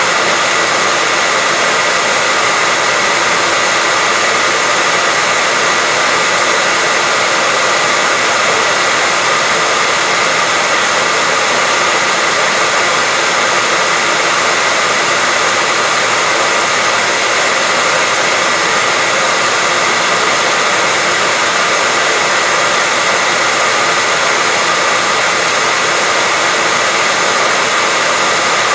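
Hair dryer blowing steadily, a constant rushing noise with a faint high whine and no change in speed.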